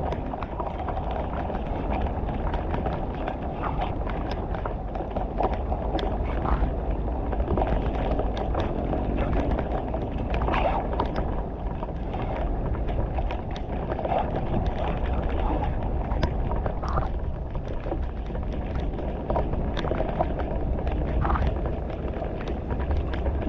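Steady rushing of flood water draining through a culvert, with scattered clicks and knocks throughout.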